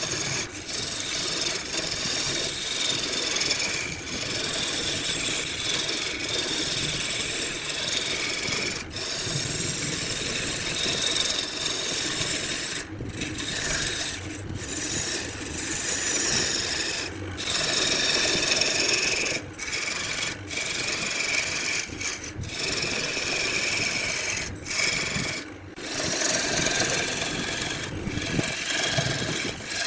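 A tool scraping against wood spinning on a lathe: a continuous rasping noise with a faint steady whine under it. The noise breaks off briefly several times in the second half.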